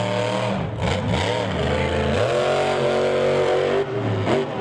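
Monster truck's big engine revving hard, its pitch rising and falling several times as the throttle is opened and closed.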